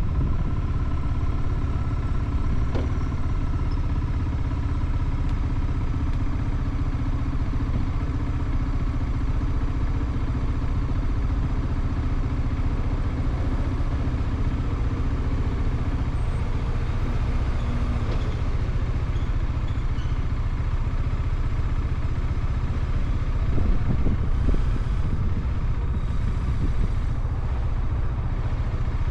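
Motorcycle engine running steadily, with a constant low engine note and no big changes in pitch or loudness.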